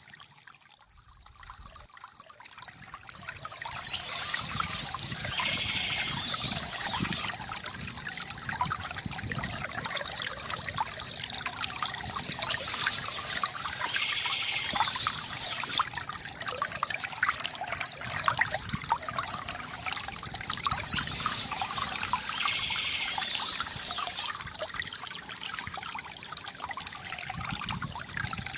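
Stream water trickling and flowing steadily, swelling up in level over the first few seconds.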